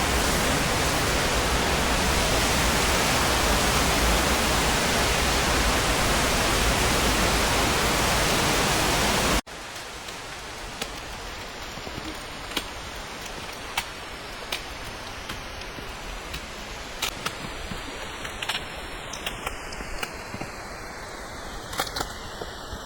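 Mountain torrent rushing loudly and steadily. About nine and a half seconds in it cuts abruptly to a quieter hiss of water, with scattered sharp ticks.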